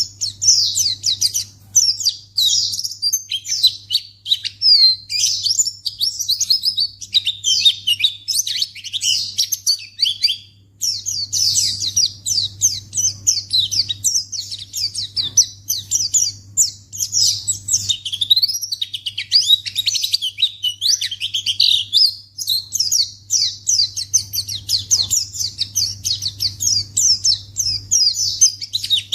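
White-eye (pleci) song: rapid, high twittering phrases that run almost without a break, with a short pause about ten seconds in. A faint steady low hum lies underneath.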